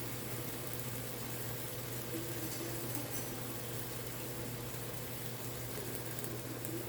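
Cooked tomatoes with soy sauce and fish sauce simmering in a pan: a steady soft bubbling sizzle, over a steady low hum.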